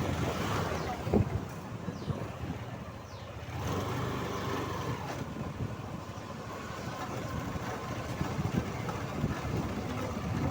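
Hero Honda Karizma ZMR motorcycle being ridden along a road: engine running, with road and wind noise over the microphone.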